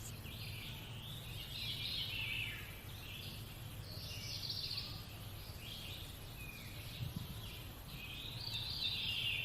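Birds singing: short, high chirping phrases that recur every second or two over a faint steady low background noise.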